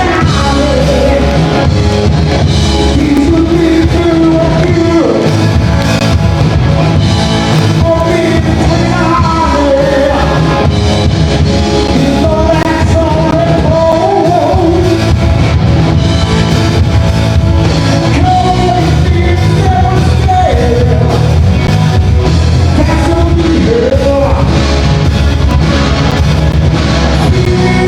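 Rock band playing live with a lead singer, loud and full throughout.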